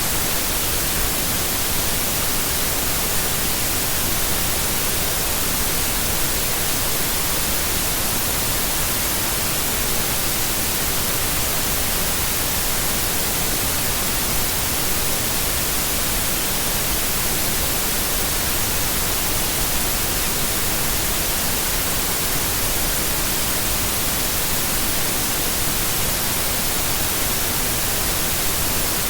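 Steady white noise: an even, unbroken hiss across the whole range, strongest in the treble, with no change in level.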